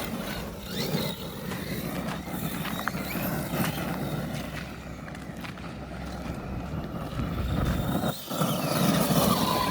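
Large battery-powered RC monster truck driving, its electric motor whining with a pitch that rises and falls as it speeds up and slows.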